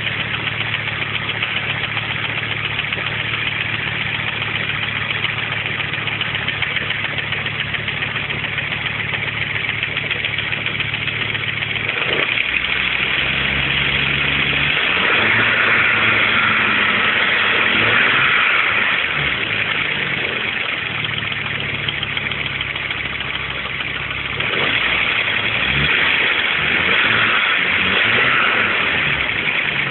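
Audi 200 20V's 3B turbocharged inline-five engine idling steadily, then raised in revs twice, about 12 seconds in and again about 24 seconds in, with a louder high-pitched rushing noise while the revs are up. This is the strange noise the owner is showing, its cause not identified.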